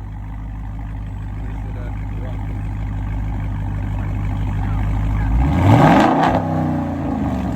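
Dodge pickup's 6.4-litre HEMI V8 with its mid muffler deleted, idling steadily through the opened-up exhaust. It is revved once about five and a half seconds in, the pitch rising quickly and then falling back toward idle.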